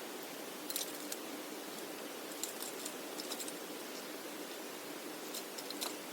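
Steady rushing of running water, with three short runs of light clicks and clinks, like camping gear being handled during packing.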